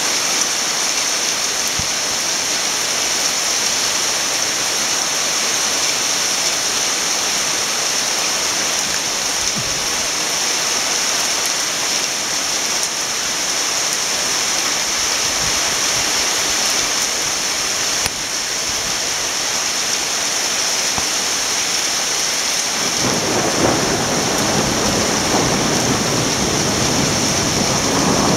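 Torrential thunderstorm downpour, a cloudburst, pouring onto a street, roofs and parked cars in a steady, dense hiss. About twenty-three seconds in, a low rumble rises underneath it and carries on.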